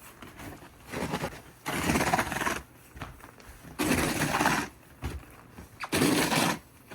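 Snow shovel scooping and scraping through light, fresh snow in four strokes about two seconds apart.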